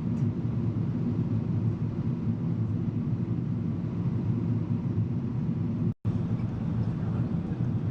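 Steady low drone of a Boeing 777 airliner's cabin: engine and airflow noise heard from inside the cabin. The drone breaks off for a split second about six seconds in.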